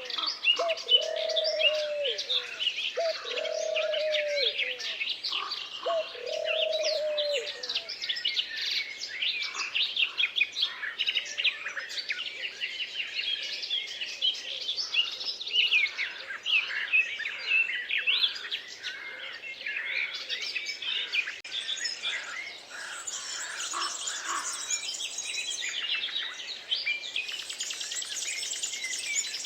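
A chorus of many small songbirds chirping and trilling. Over the first several seconds a dove or pigeon coos low, about three times.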